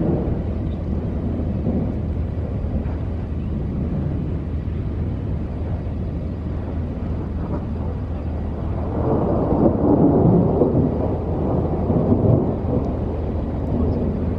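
Thunder from a supercell thunderstorm rumbling, swelling into a louder roll about nine seconds in that lasts several seconds, over a steady low background rumble.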